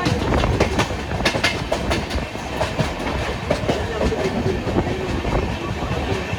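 Passenger express train running on the track, its wheels clattering with irregular sharp clicks over the rails.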